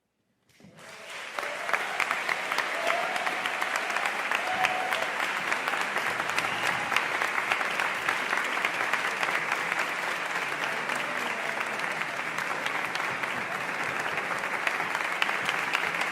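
Concert audience applauding: clapping breaks out about half a second in after silence, swells within a second and stays steady and dense.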